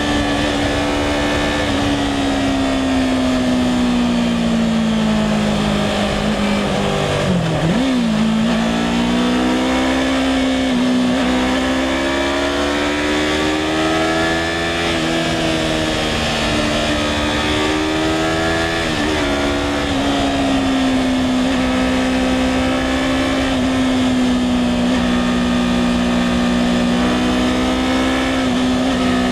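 2016 Yamaha R3's 321 cc parallel-twin engine pulling the bike along, over steady wind noise. The engine note sinks slowly for several seconds, jumps about eight seconds in, climbs twice with quick shifts in pitch, then holds a steady cruise for the last third.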